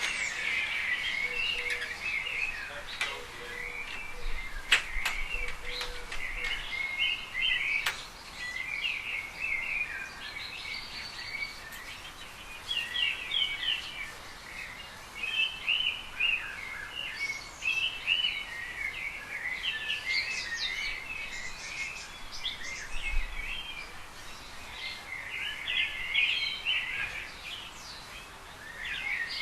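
Small garden birds chirping and twittering in quick, repeated bursts, with a couple of sharp clicks in the first eight seconds.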